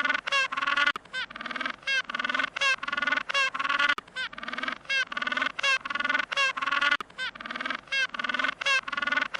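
Waterfowl calling in a rapid, unbroken series of harsh, nasal calls, about two to three a second.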